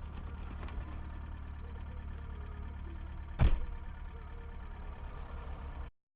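Car engine and road noise droning steadily, with one sharp thump about three and a half seconds in. The sound cuts off abruptly near the end.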